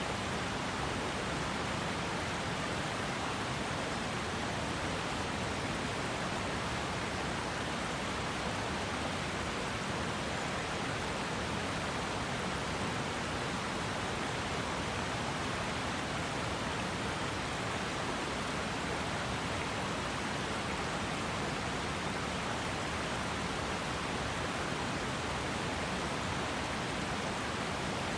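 River water flowing in a steady, unbroken rush, with no change in level.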